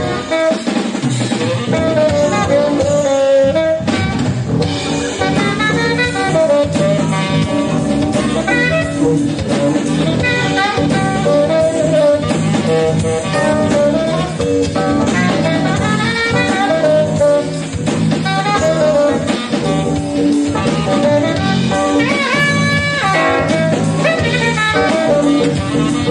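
Live jazz band playing an instrumental number: drum kit, electric bass, keyboards and guitar, with a saxophone playing a melody line.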